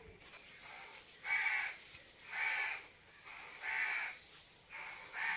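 A bird calling: four loud calls about a second apart, each about half a second long, with a fainter one near the end.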